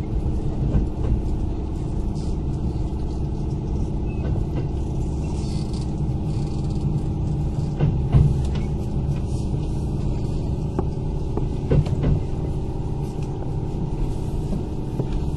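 Kintetsu 8000-series electric train car heard from inside while running: a steady rumble of wheels on rail and the drive's hum, with a few sharp rail-joint clicks.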